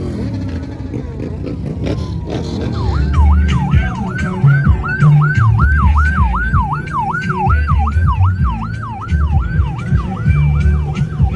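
A fast yelping electronic siren, about three rapid rising-and-falling sweeps a second, starting about three seconds in, over loud motorbike engines.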